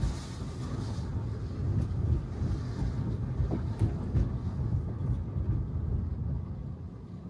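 Road and tyre noise from a Tesla Model 3, an electric car with no engine sound, driving on wet pavement. It is a steady low rumble with a tyre hiss that is strongest in the first second and again a few seconds in, and it eases off a little near the end.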